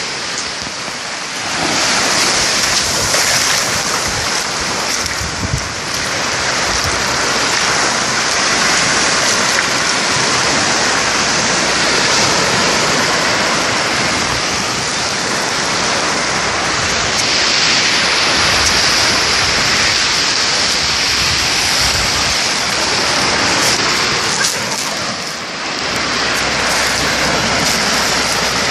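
Sea waves breaking and washing up a beach, a loud, steady rush of surf that eases briefly about a second in and again near the end.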